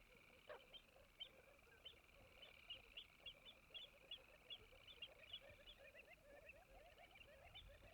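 Faint chorus of wetland animal calls: a quick series of short high chirps over a steady high buzz, with many lower chattering notes underneath.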